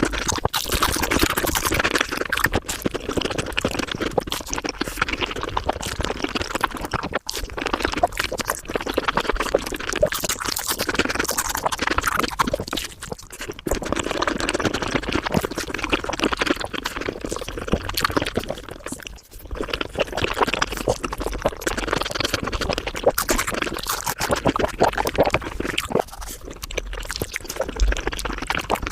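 Mukbang eating sounds sped up about fivefold: a dense, continuous patter of wet chewing and mouth noises, briefly broken about 7, 13 and 19 seconds in.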